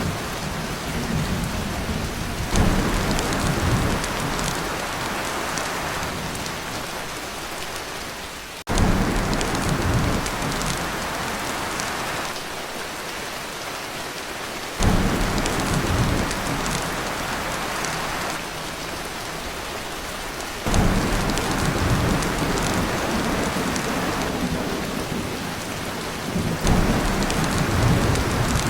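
Torrential rain drumming on a tin roof, with thunder rumbles that break in suddenly five times, about every six seconds, each fading before the next.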